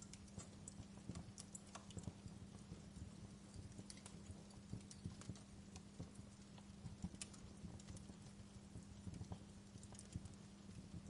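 Wood fire crackling: quiet, irregular snaps and pops, several a second, over a low steady hum.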